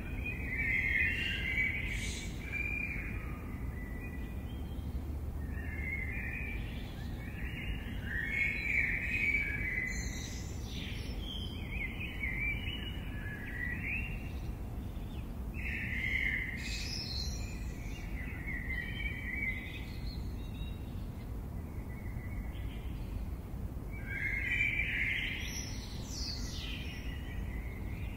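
Birds singing in phrases a few seconds long, one after another, over a steady low background rumble.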